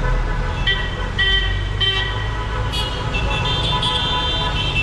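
Busy city traffic: a steady engine rumble with several car horns honking, first a few short toots, then overlapping horns sounding together for the last couple of seconds.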